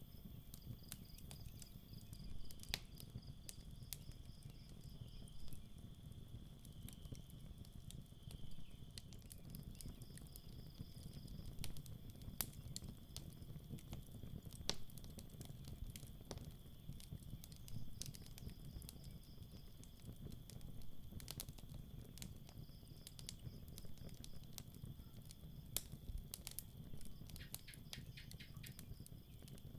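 Campfire crackling with irregular sharp pops over a low steady rumble, with crickets chirping in pulsing trains and a steady high insect trill behind.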